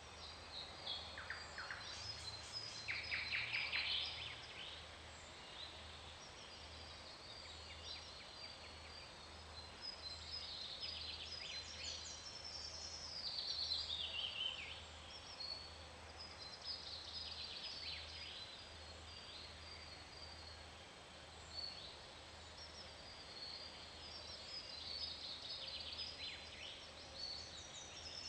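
Faint bird chirping: short trills and chirp phrases that fall in pitch, recurring every few seconds over a low steady hum.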